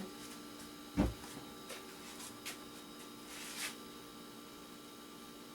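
Electronic scrap being handled on a work surface: one thump about a second in, the loudest sound, then a few light clicks and a short rustle, over a steady faint hum.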